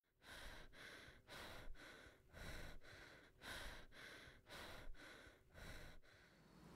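A person breathing heavily, faint: quick breaths in and out about twice a second, dying away near the end.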